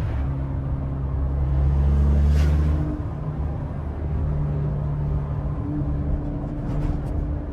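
Peugeot 206's four-cylinder engine with a straight-piped exhaust and open intake, running at low revs while driving. It swells louder with a brief rise in pitch about two seconds in, then settles back to a steady low drone.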